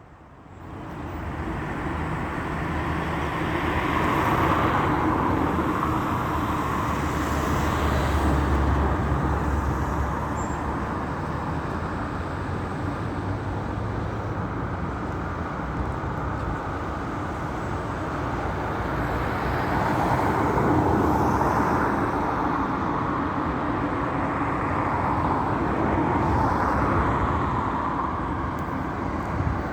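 Steady road traffic noise: tyres and engines of vehicles passing, swelling and easing as they go by.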